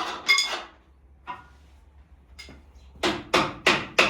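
Metal clanks with a ringing tone, then, about three seconds in, a run of hammer blows on metal, about three a second. The hammer is being used as persuasion to seat the engine as it is lowered into the truck.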